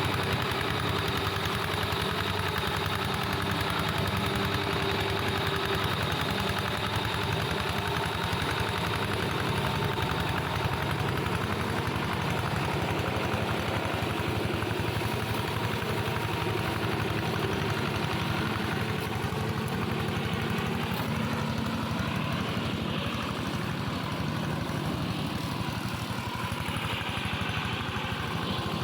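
Engine of a plough tractor modified as a brush mower, running steadily at an even speed.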